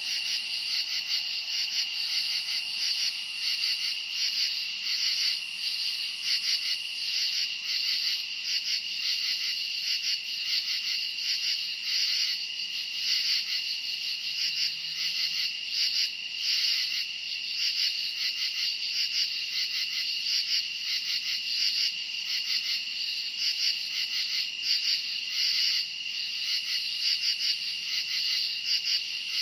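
Dense, steady chorus of crickets chirping, a continuous high pulsing trill.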